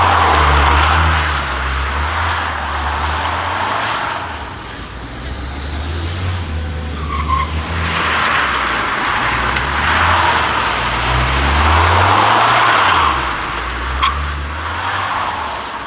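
Modified cars revving hard and accelerating away in turn, engines rising and falling in several loud surges about every three to four seconds.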